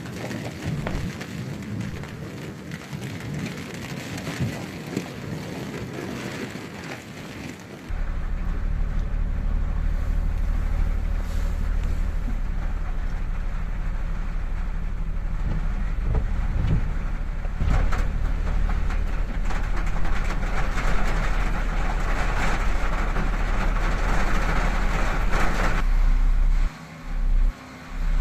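Rain falling. About eight seconds in, a car engine's steady low running hum comes in under the rain noise, and near the end it cuts in and out a few times.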